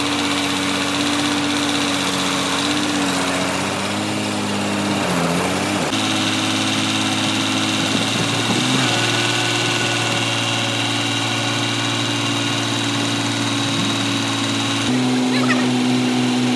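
Rebuilt Nissan diesel engine running steadily after its overhaul. Its speed dips briefly twice and shifts abruptly to a different steady pitch a couple of times.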